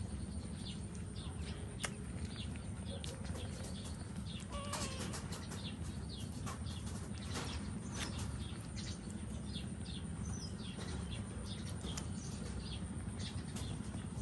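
Frequent short, high squeaks from small animals over a steady low rumble, with a few soft clicks.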